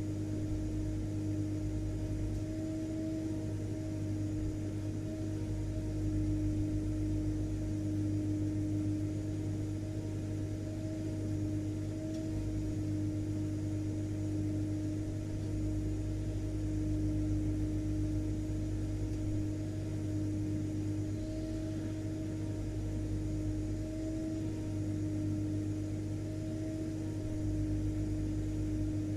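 Vacuum cleaner running steadily, a continuous motor hum with a high whine over a rush of air.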